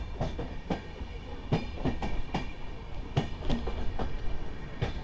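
Yeswantpur–Karwar Express passenger train running, its wheels clattering over the rail joints in irregular knocks, a few a second, over a steady low rumble.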